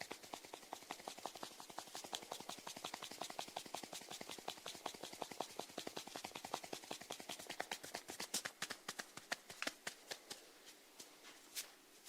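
Snails feeding: a rapid run of crisp, faint clicks as they rasp at their food, many a second, thinning out to a few sparse clicks near the end.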